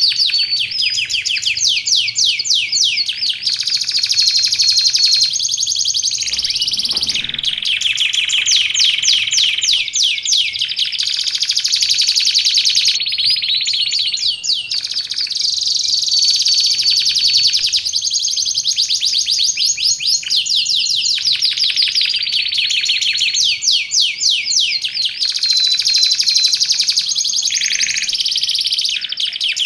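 Domestic canary singing nonstop: fast rolling trills, one after another, with held high whistled notes in between.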